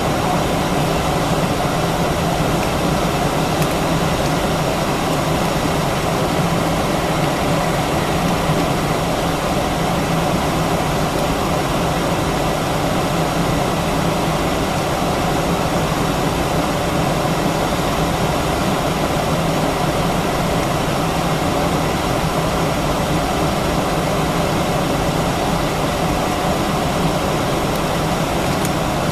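Steady cabin noise inside an Airbus A319-132 airliner: the hum and rush of its IAE V2500 engines and air conditioning. The level holds even, with no change.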